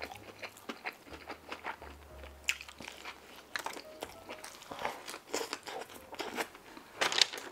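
Close-up eating sounds of a person chewing a soft-bun slider open-mouthed, with many short wet smacks and clicks. Near the end comes a louder run of smacks as he licks sauce from his fingers.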